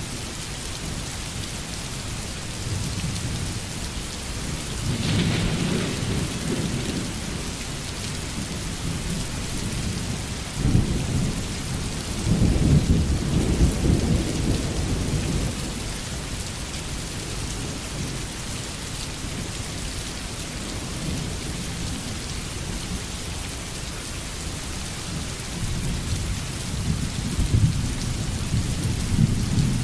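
Steady rain hissing down during a thunderstorm, with thunder rolling over it: a rumble about five seconds in, a sudden crack a little after ten seconds that swells into a longer, louder rumble, and another rumble near the end.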